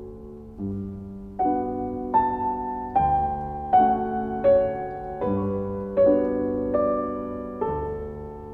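Background piano music: a slow, gentle piece with chords struck about every second and a melody moving above them.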